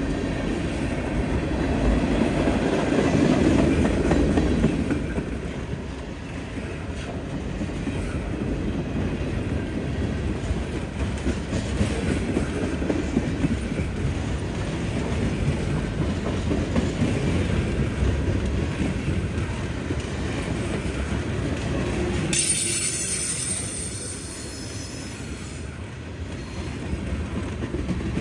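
A freight train's cars rolling past with steady wheel and rail clatter, loudest in the first few seconds. Near the end a high, ringing squeal sounds for about three seconds while the low rumble drops away.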